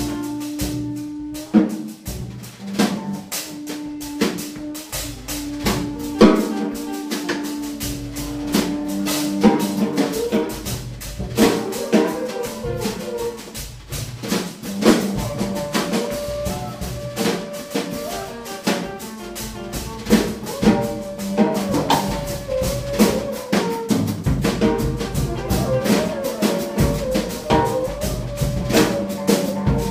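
A small live band playing: drum kit strokes throughout, with held melodic notes over them, a low note at first and higher notes from about halfway in.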